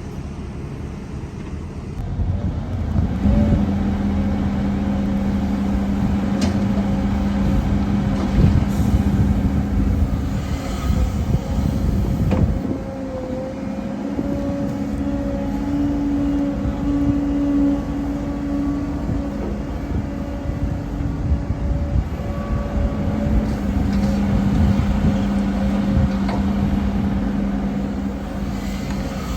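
Heavy diesel earthmoving machinery running: a steady engine hum that gets louder about two seconds in and holds, with a few brief knocks.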